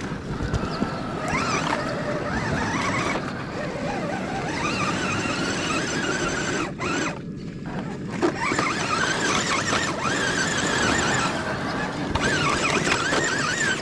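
Electric motor and gearbox of a radio-controlled crawler truck whining, the pitch wavering up and down with the throttle.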